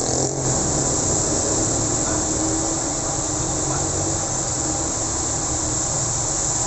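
Steady hiss of rain falling on a road, with the low hum of vehicle engines passing by.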